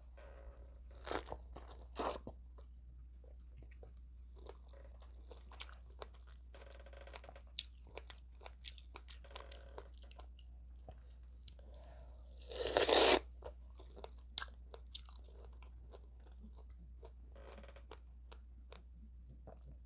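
Close-up crunching bites into extra-crispy fried chicken and chewing. There are loud crunches about one and two seconds in and the loudest, longest crunch a little past halfway, with softer chewing clicks in between.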